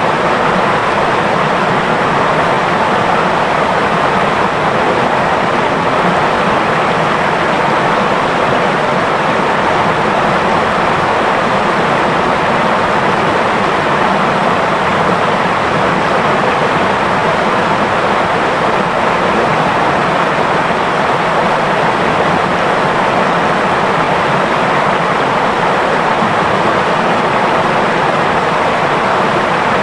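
Clear river water flowing with a steady, even babble, with light drizzle falling.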